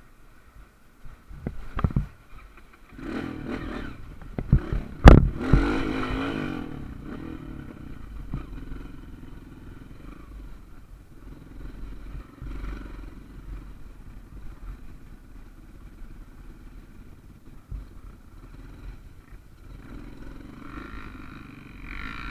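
Small off-road motorcycle engine running and revving on a rough trail, with clattering knocks early on and a sharp loud knock about five seconds in, then running more steadily.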